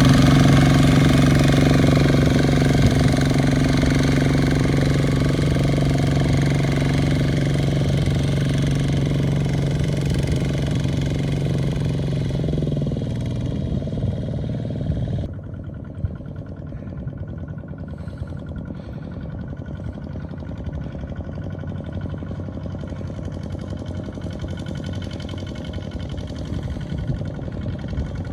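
Small farm tractor engine running steadily, fading about twelve seconds in. About fifteen seconds in the sound drops abruptly to a quieter engine with scattered knocks.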